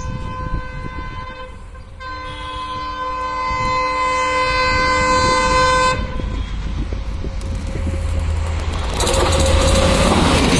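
Approaching express passenger train hauled by twin diesel locomotives: the horn sounds in a chord of several tones, strongest for about four seconds from two seconds in. Then the diesel engine rumble and wheel noise swell as the locomotives pass close by, loudest near the end.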